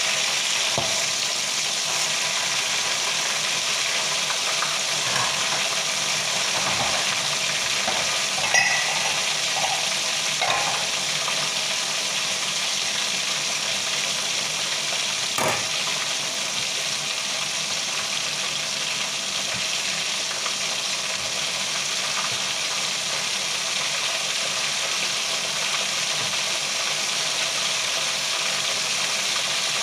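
Chicken frying in hot oil in a pan: a steady sizzle, with a few sharp clinks of a metal utensil against the pan as the pieces are turned, about a third of the way in and again around the middle.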